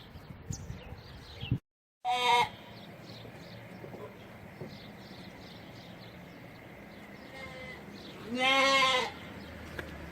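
An animal calls twice: a short call about two seconds in, just after a brief moment of silence, and a longer, fairly level call near the end.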